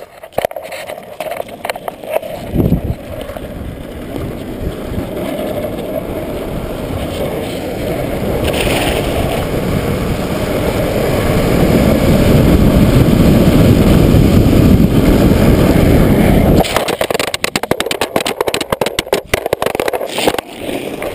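Wind rush on a board-riding action camera with longboard wheels running on asphalt, growing steadily louder as speed builds toward about 45 mph. Near the end it cuts off suddenly, followed by scattered scrapes and knocks as the rider bails off the wobbling board and slides on knee pads and slide pucks.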